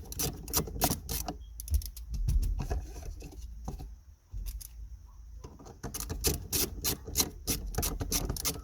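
Ratchet wrench clicking rapidly as a 10 mm bolt is undone. The clicking comes in two runs, with a pause of a couple of seconds in the middle.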